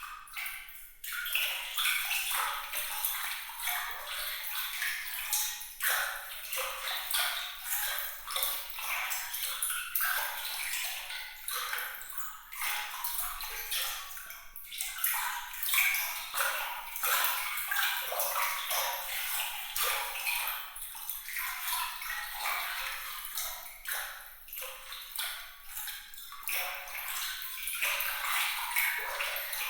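Water trickling and splashing with bright, glittery plinks and drips, a dense irregular patter with no low rumble. It swells in about a second in after a brief gap.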